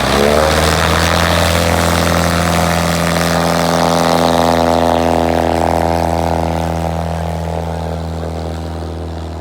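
Floatplane's piston engine and propeller at full power on a takeoff run: a loud, steady drone that comes in suddenly and fades slowly over the last few seconds.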